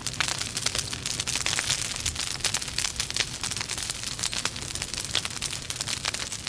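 Logs burning in a fireplace, crackling: a dense stream of small snaps and pops over a steady soft hiss.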